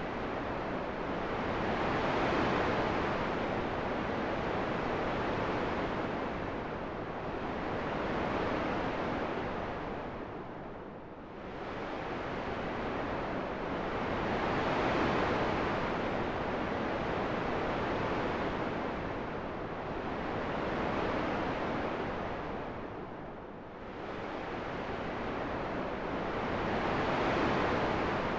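Steady wind noise that swells and eases in slow gusts, with two clear lulls.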